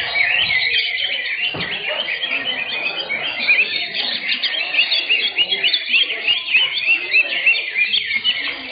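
Several cucak hijau (green leafbirds) singing at once: a dense, unbroken tangle of quick chirps and short whistled phrases.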